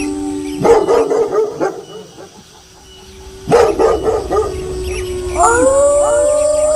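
Wolves howling in an overlapping chorus, cut by two harsh bursts of dog barking, about a second in and again about three and a half seconds in. Near the end several new howls rise in pitch and then hold.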